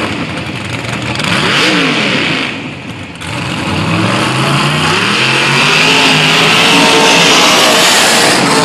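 Mud truck engine revving hard: two quick rises and falls in pitch, then held at high revs with the pitch climbing for several seconds under a loud steady hiss.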